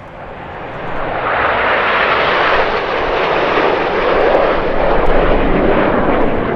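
Red Arrows' BAE Hawk T1 jets flying past in formation, their Adour turbofans making a loud jet rush. The noise swells over the first couple of seconds and stays loud, its tone shifting as the formation passes.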